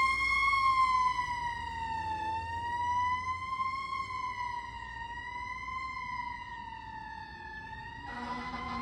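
Fire engine siren wailing, its pitch slowly rising and falling and gradually fading. A lower steady tone joins near the end.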